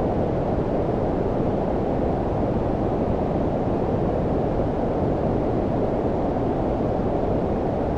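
Steady low-frequency white noise, filtered so that it sits mostly below about 1 kHz with little hiss above, close to brown noise. It is unchanging throughout.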